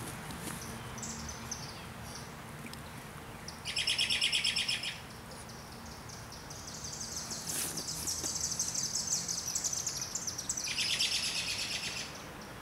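Songbirds singing: a rapid high trill about four seconds in, then a longer run of fast high chirps with another trill near the end.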